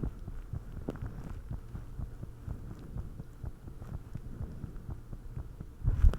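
A person's heartbeat recorded up close: low, repeated thumps, with a louder thump near the end.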